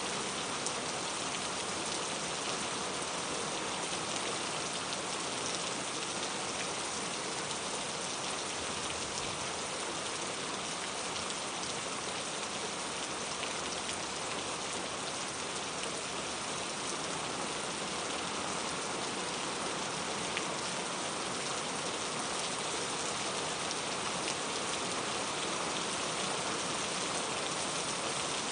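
Steady rain falling, an even hiss with fine pattering drops, unchanging throughout.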